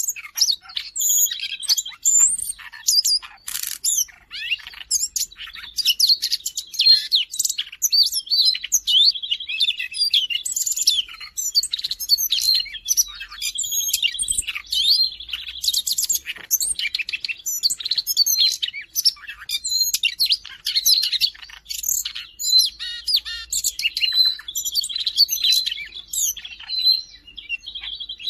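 Siberian rubythroat singing a fast, continuous, varied warbling song of high notes, broken by repeated buzzy trills.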